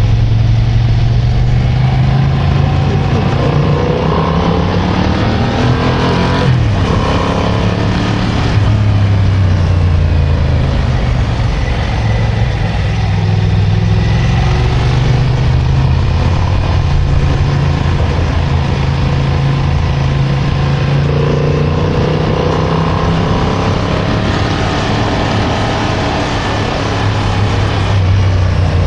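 Motorcycle engine heard from on board, its pitch climbing and dropping as the rider accelerates and shifts gears through bends, with a dip about six seconds in. A steady rush of wind and road noise runs underneath.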